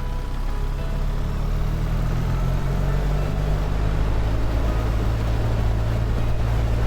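BMW R1300 GS boxer-twin engine running on the move, its note rising a little over the first few seconds and then holding steady.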